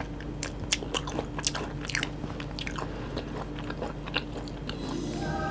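Close-miked eating of yangnyeom chicken, Korean fried chicken in a sticky sweet sauce: a bite, then chewing with irregular soft crunches and wet mouth clicks.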